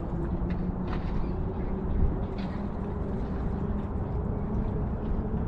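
Wind buffeting the microphone over the steady hum of a boat engine on the water, its pitch drifting slowly upward.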